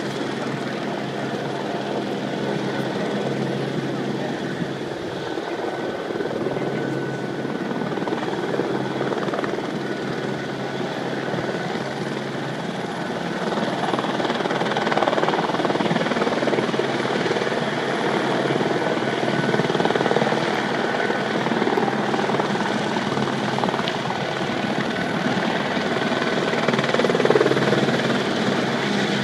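Film-crew camera helicopter flying near, its rotor and engine a steady drone that grows louder about halfway through.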